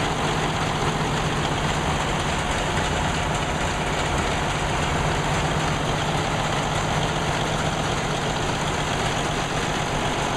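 Engine-driven sawmill running steadily, sawing a thick, knotty oak log, with a constant machine drone and a steady low hum.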